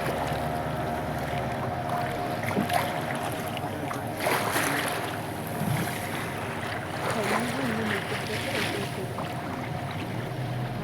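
A boat's motor running steadily, with wind and water noise, and faint voices in the background.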